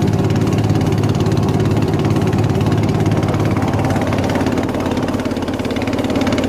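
Long-tail boat engine running steadily and loudly; its note shifts slightly about five seconds in.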